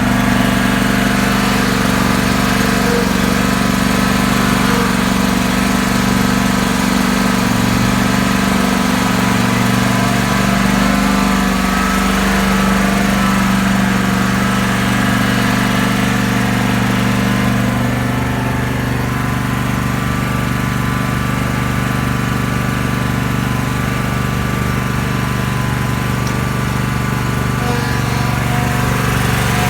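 Lawn mower engine running steadily, with a small dip in loudness about two-thirds of the way through.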